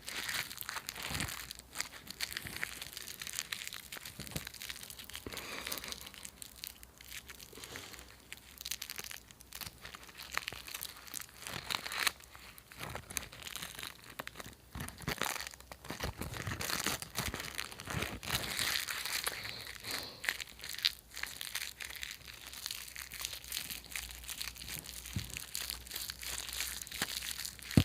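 Crinkly food wrappers being crumpled and scrunched by hand close to the microphone, an irregular run of crackles and crinkles with some tearing-like rustles.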